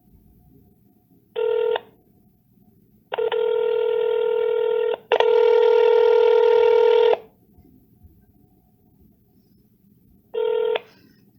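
Telephone line signal tones while a call is being transferred: a short buzzy beep, then two long buzzy tones of about two seconds each, the second louder, then another short beep.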